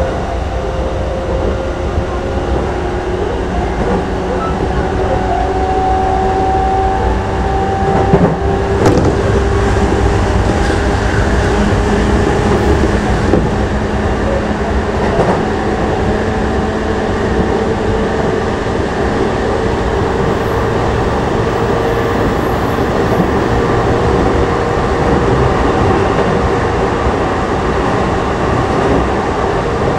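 JR East E233 series 5000 electric train running between stations, heard from inside the passenger car: a steady rumble of wheels on rail with a whine from the traction motors that slowly shifts in pitch. A few sharp clicks come about eight to nine seconds in.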